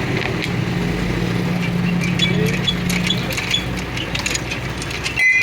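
A motor running steadily with a low hum, with light metallic ticks and clinks over it; the sound drops out briefly near the end.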